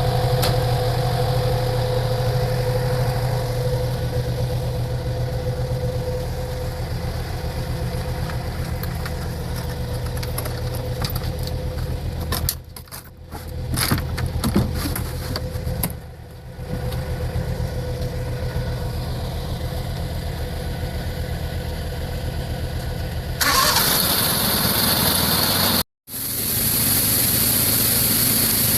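A machine's engine running steadily at harvest, with a steady hum and low drone. About two-thirds of the way through, the sound changes to a louder, hissier noise and breaks off for a moment.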